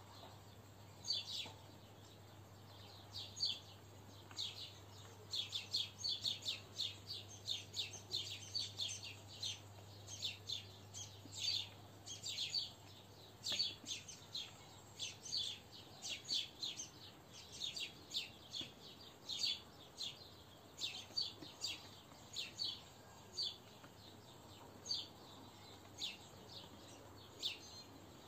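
Small birds chirping: a steady stream of short, high chirps, often several a second, with brief pauses between runs.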